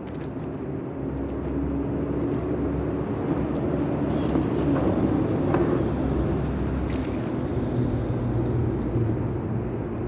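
A motor running steadily with a low hum that swells a little in the middle, with brief hissing about halfway through.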